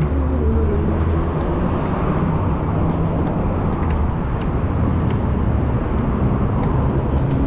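Steady rumble of busy road traffic, engines and tyres going past.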